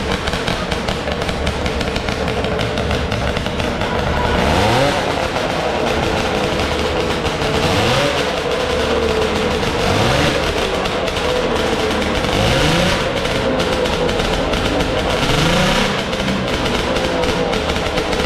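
FL500 formula car's engine running at idle and blipped five times, about every two and a half seconds, each rev rising in pitch and dropping back.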